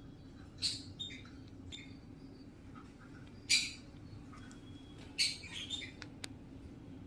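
Pet parrot giving a series of short, sharp squawks and chirps, the loudest about halfway through and a quick cluster of calls near the end, over a steady low hum.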